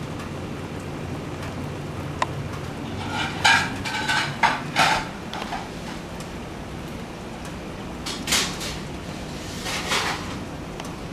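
Steady rain falling, with a few short, sharper sounds about three to five seconds in and again around eight to ten seconds in.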